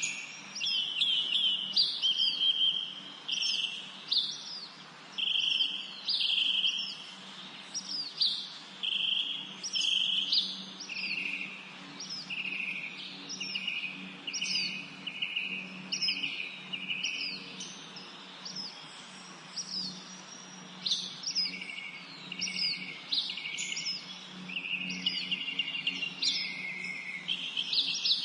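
Songbirds singing: short phrases, each a quick falling note followed by a lower trill, repeated about once a second, with a few seconds' lull in the middle. A faint steady low hum runs underneath.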